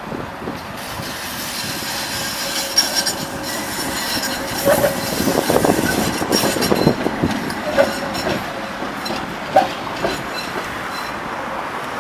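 A tram running past on the rails, growing louder towards the middle, with a few sharp wheel clacks over the track and a faint high wheel squeal.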